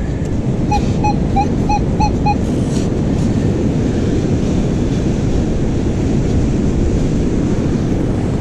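Steady wind on the microphone over beach surf. About a second in, a Minelab Manticore metal detector gives six short, evenly spaced beeps of one pitch as it sweeps over a buried target.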